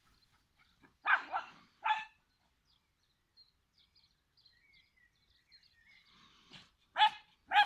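A Cavalier King Charles spaniel giving short, sharp barks: three in quick succession about a second in, and two more near the end.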